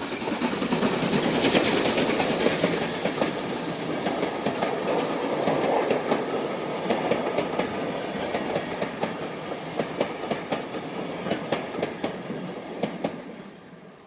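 A steam-hauled train passing at speed, building to a loud rush over the first couple of seconds. Its carriages' wheels then click over the rail joints about twice a second, and the sound drops away sharply near the end as the train goes by.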